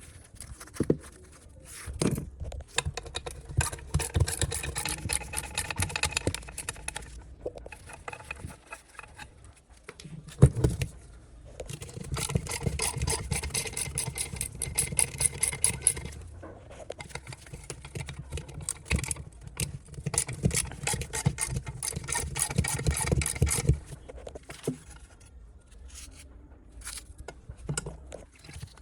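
Workshop hand work on metal: three bouts of rapid scraping strokes, each a few seconds long, with pauses between and a single sharp knock about ten seconds in.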